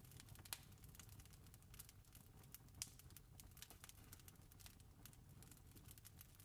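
Faint campfire crackling: irregular small pops and snaps of burning wood, with two sharper snaps about half a second in and near three seconds in, over a low steady rumble.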